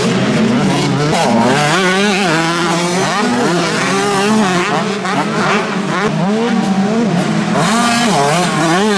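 Several motocross bikes racing, their engines revving up and falling back again and again, with the pitches of several bikes overlapping.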